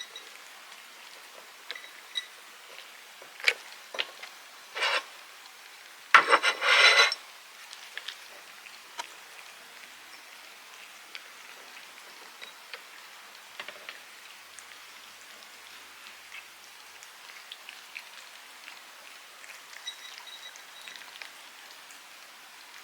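Cats eating treats: scattered small clicks and smacks of chewing and licking, with one louder short pitched sound about six seconds in.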